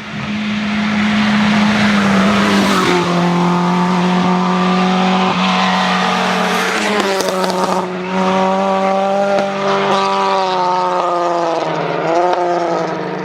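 Rally car engine running hard at high revs, its pitch held high and broken briefly several times as it changes gear.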